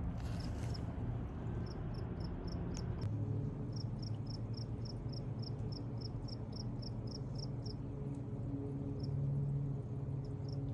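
A rapid series of short high chirps, about four a second, from a small animal such as a bird or insect, running over a steady low rumble.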